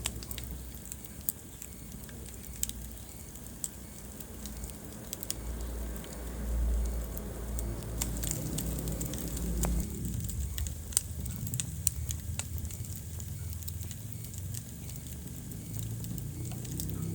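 Wood fire burning in a fireplace: a low rumble of flames under scattered sharp crackles and pops. The rumble swells for a few seconds in the middle.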